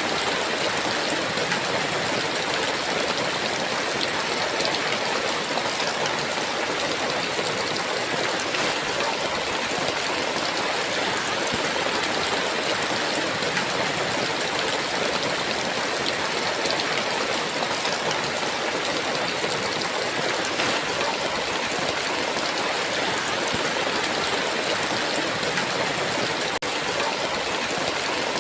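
Heavy rain falling as a dense, steady downpour, an even hiss with no thunder.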